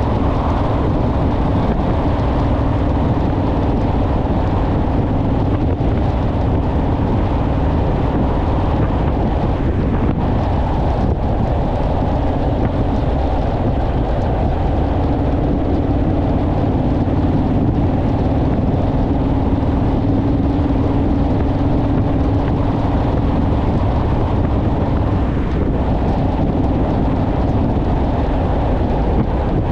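Honda Rebel motorcycle's parallel-twin engine running steadily while riding along, with wind rushing over the microphone. The engine note rises a little for several seconds around the middle.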